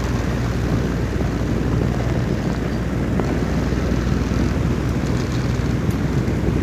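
Wind blowing in a steady, low rush of noise with no distinct gusts.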